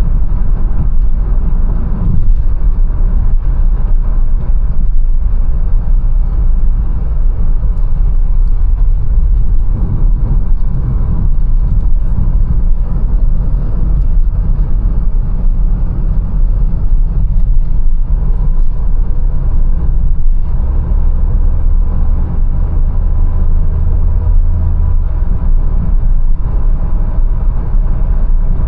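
Mercedes-Benz A180 on the move: a steady, loud low rumble of engine and road noise. A deeper drone holds for a few seconds after the middle, then fades back into the rumble.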